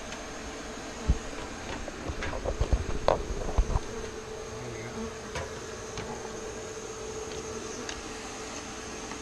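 Honey bees from a large feral colony buzzing over the steady hum of a shop-vac bee vacuum. Several sharp knocks and clicks come in the first few seconds.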